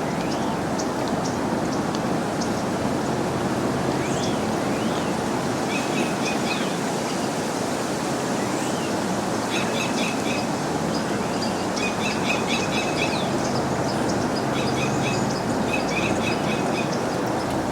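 Small birds chirping in quick runs of short notes, with a few rising slurred calls, over a steady rushing outdoor noise.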